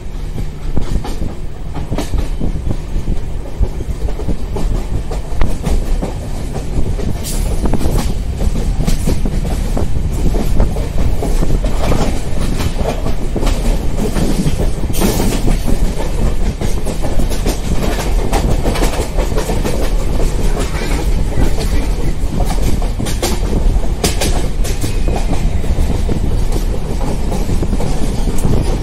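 Passenger train running at speed: a steady rumble of the coaches, with the wheels clacking sharply and irregularly over the rail joints.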